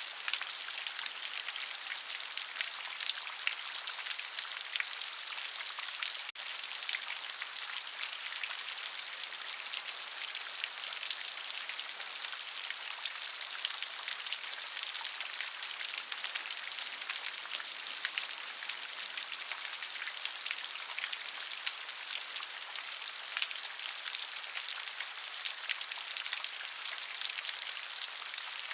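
Steady rain: a dense, even hiss of falling rain with countless individual drops heard as fine ticks. There is a split-second dropout about six seconds in.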